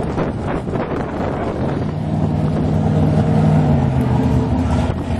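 Wind buffeting the microphone, then from about two seconds in an engine running at a steady, unchanging pitch.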